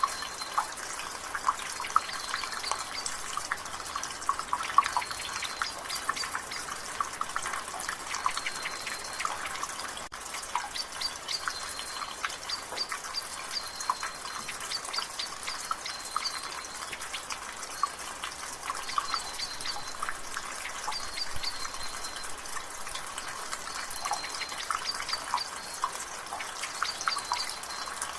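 Rain water dripping and splashing from a gutter, a dense run of irregular drips over a light hiss of rain. Short high bird chirps recur in the background.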